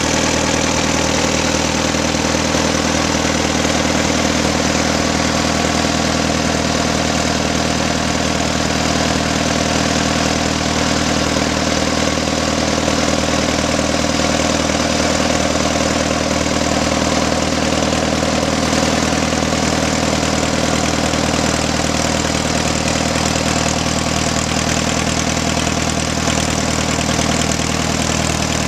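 1938 Case C tractor's four-cylinder engine running steadily at an even, unchanging speed.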